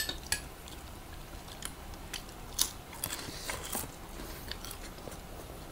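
Close-up eating sounds of chicken adobo being chewed: scattered short clicks and smacks of mouths and fingers on the food, the loudest about two and a half seconds in.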